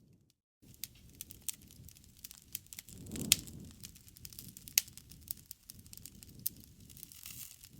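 Wood fire crackling with many sharp pops and a low rush of flame, after a half-second gap of silence at the start. The loudest pop comes about three seconds in, over a brief low swell.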